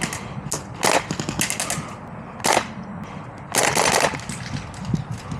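Airsoft gun firing several short bursts of rapid shots, with a longer burst a little before the four-second mark.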